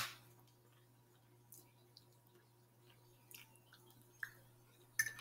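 Faint, sparse mouth sounds of chewing a forkful of soft rice: a click as the mouth closes at the start, then a few small wet ticks and smacks, a little stronger about four seconds in and near the end, over a faint steady hum.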